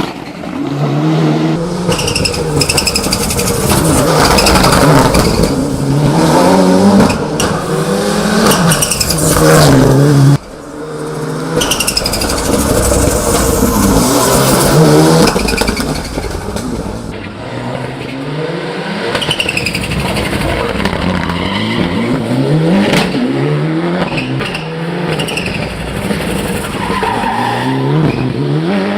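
Race-built Mitsubishi Lancer Evolution VI's turbocharged four-cylinder engine at full throttle, revving up and dropping back again and again as it shifts through the gears. The run is broken by sudden cuts at about ten and seventeen seconds in.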